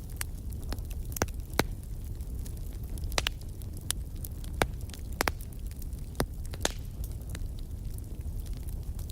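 Burning firewood crackling and popping over a low steady rumble of the fire, with sharp irregular snaps every second or so.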